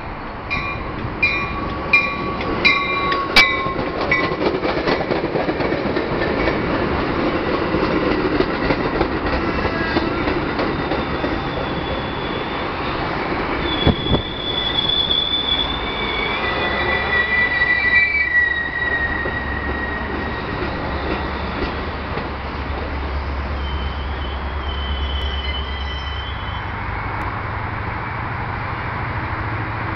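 Metra commuter train of stainless-steel bilevel cars pulling slowly into a station: a bell rings in regular strokes for the first few seconds, then the cars roll past with wheel and brake squeal in the middle, and a low hum comes in near the end.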